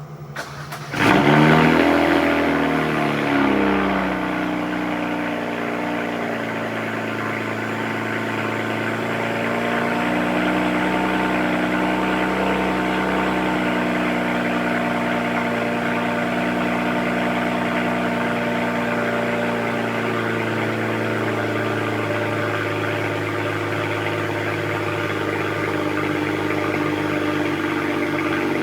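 BMW E93 335is's N54 twin-turbo inline-six on its stock exhaust, cold-started: it catches about a second in with a loud rev flare that falls away over the next few seconds, then holds a steady raised cold idle. About twenty seconds in the idle steps down slightly.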